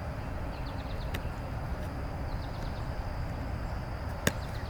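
Steady low outdoor rumble with faint high chirps, and a single sharp smack about four seconds in: a thrown football striking the receiver's hands.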